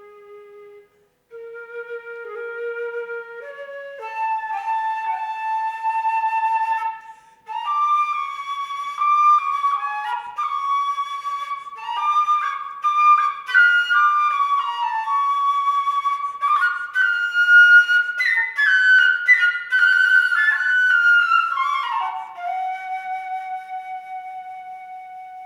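Solo concert flute playing unaccompanied: a soft low note, a brief pause, then rising phrases that build into a loud, fast passage of sharply accented notes, settling onto one long held note that slowly fades.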